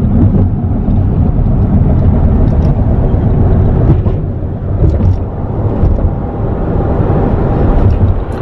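Car driving at road speed: a steady low rumble of tyre, road and engine noise.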